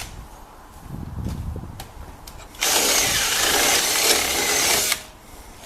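A hand-held power tool working a metal radiator bracket runs for about two seconds, starting and stopping abruptly. Quieter rubbing and handling sounds come before it.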